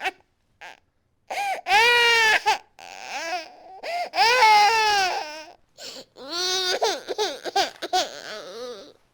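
Infant crying hard: loud, high-pitched wails with short breaths between them, starting about a second in after two brief faint sounds.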